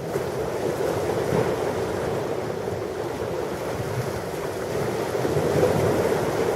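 Ocean surf: waves breaking and washing in a continuous rush, swelling a little louder about five seconds in.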